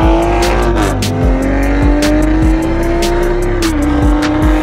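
A car engine accelerating hard, its pitch climbing steadily and dropping sharply at two upshifts, about a second in and near the end. Background music with a steady beat plays over it.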